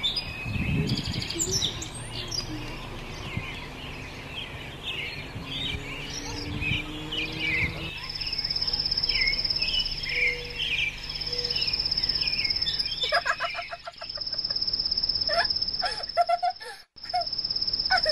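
Several birds chirping and singing in quick, overlapping calls. From about eight seconds in, a high, even, buzzing trill repeats in long stretches of several seconds each.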